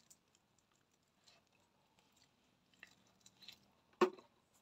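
A person chewing food with the mouth close to the microphone: faint, scattered soft crunches and wet mouth clicks. About four seconds in there is one short, louder voiced sound, like an 'mm'.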